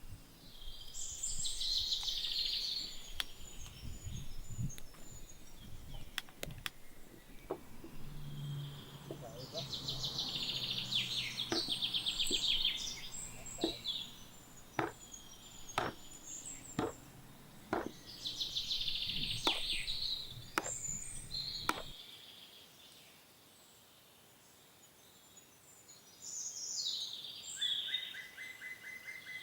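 A songbird singing short, fast-trilled phrases every eight to ten seconds, with scattered light clicks and knocks in between. A steady, buzzing trill starts near the end.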